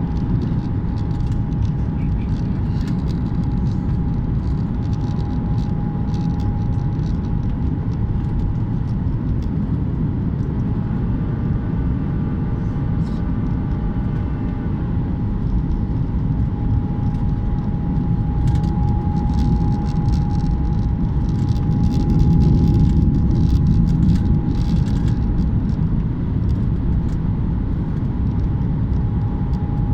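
Airliner cabin noise: a steady deep rumble of engines and airflow with a thin steady whine above it, swelling slightly about two-thirds of the way through.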